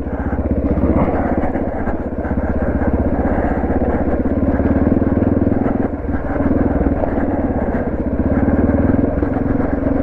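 Suzuki DR650's single-cylinder four-stroke engine running at a steady, moderate pace under way on a dirt trail, its even firing pulses heard from the rider's helmet, with small dips in engine level twice.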